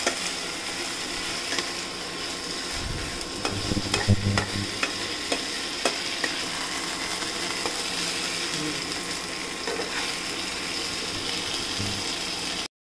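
Marinated chicken pieces with onions sizzling as they fry in a nonstick pan, stirred with a metal spatula that clicks and scrapes against the pan. There are a few dull knocks about three to four seconds in, and the sound stops suddenly near the end.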